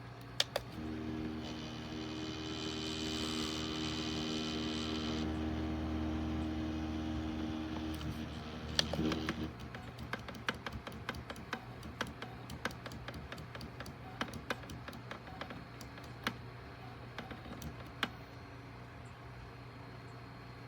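Small electric table fan clicked on, its motor running with a steady hum and a whine that drops out after a few seconds. The fan stops with a cluster of clicks about nine seconds in, followed by scattered irregular clicks of handling or button presses.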